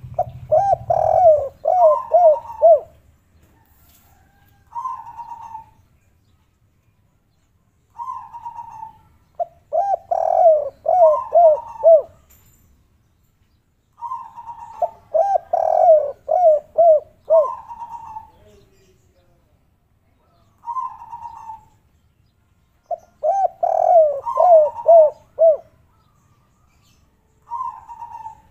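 Spotted dove (derkuku or tekukur) singing its 'kuk 3' song. Repeated cooing phrases, each a higher opening coo followed by a quick run of about five lower falling coos, come about every five to six seconds with quiet gaps between. About four full phrases are heard, plus a few single coos.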